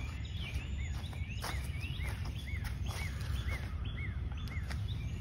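A songbird singing a run of repeated short arched whistled notes, about two a second, over a steady low rumble.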